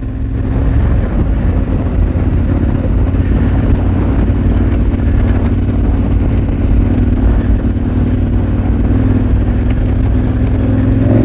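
KTM 1290 Super Adventure R's V-twin engine with an aftermarket Akrapovic exhaust, running steadily as the bike rides along a dirt road at low speed.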